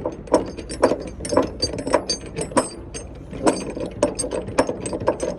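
Ratchet chain binder being cranked by hand, its pawl clicking in a quick, uneven series of sharp metallic clicks, about two to three a second.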